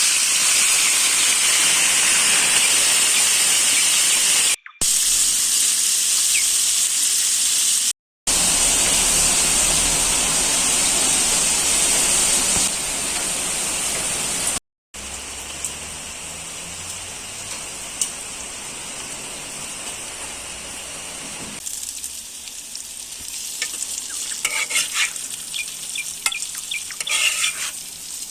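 Lamb and vegetables sizzling as they fry in a saj pan over a wood fire. The sound comes in several short stretches split by abrupt cuts to silence. The sizzle is quieter in the later stretches, and near the end a utensil scrapes and stirs in the pan.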